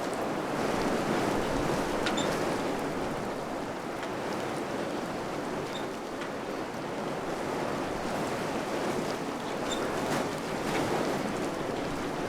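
Wind blowing steadily in slow gusts, swelling about a second in and again near the end, with a few faint high ticks.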